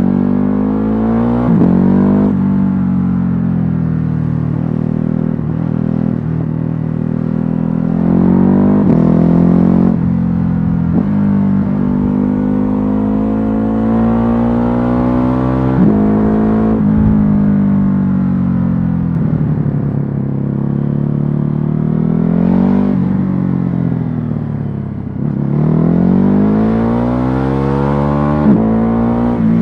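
Ducati Hypermotard 950's L-twin engine on its stock exhaust, pulling through the gears and easing off again. Its pitch climbs and falls several times, with short breaks at the gear changes.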